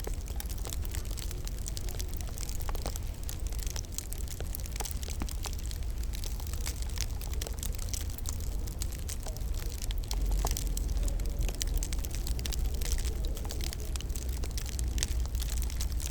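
Wood fire crackling in a fireplace, with many small sharp pops and snaps scattered over a steady low rumble.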